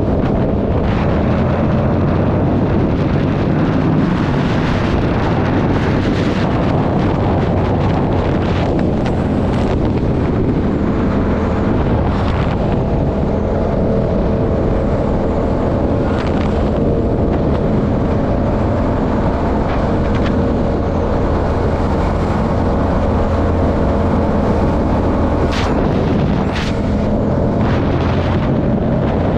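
Yamaha R7 parallel-twin with a Yoshimura AT2 exhaust, running under way on the road, with heavy wind noise on the microphone and a few brief changes in the engine note.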